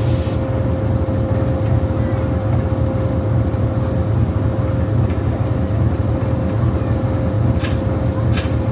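Pakistan Railways diesel locomotive running at the station: a steady, loud low engine drone with a constant whine on top. Two short hisses come near the end.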